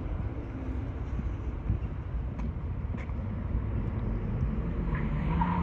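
Steady low outdoor rumble of distant road traffic, with no single event standing out.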